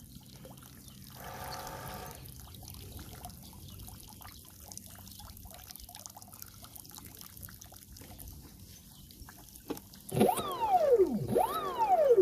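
Water trickling and dribbling out of the flooded hull of a Volantex Vector Pro Angry Shark RC boat. About ten seconds in, the boat's brushless motor whines loudly, its pitch sweeping down and back up several times as the throttle is blipped.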